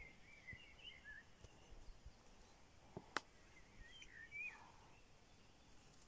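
Faint bird song: short warbling phrases about a second in and again around four seconds in. There is a single sharp click just past the middle.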